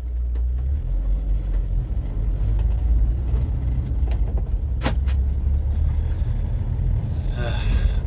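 Steady low engine and road rumble inside a VW Caddy van's cabin while driving, with one sharp click about five seconds in and a short pitched, wavering sound near the end.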